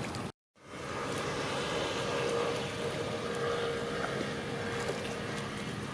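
Steady drone of a boat engine on the river, with wind on the microphone. The sound drops out completely for a moment just after the start, then comes back.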